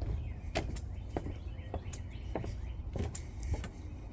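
Footsteps on a trail at a steady walking pace, a short crunch or tap roughly every half second, over a steady low rumble.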